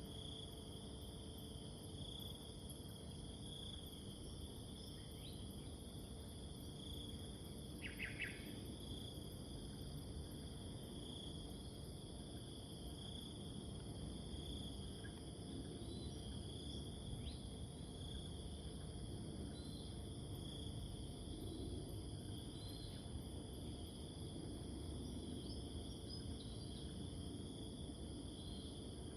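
Steady chorus of insects: a high continuous hiss with a lower pulsing trill that swells about once a second. A few faint bird chirps come and go, with one short, clearer call about eight seconds in.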